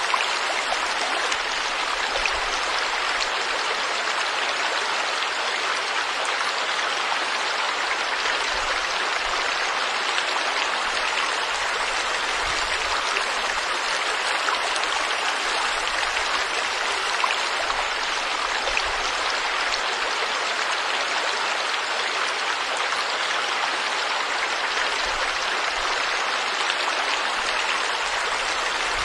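Stream water flowing steadily over rocks, a constant even rush and splash.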